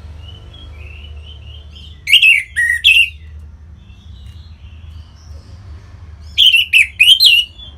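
Orange-headed thrush singing: a loud burst of quick, sharp sweeping notes about two seconds in and another near the end, with soft, quiet warbling in between.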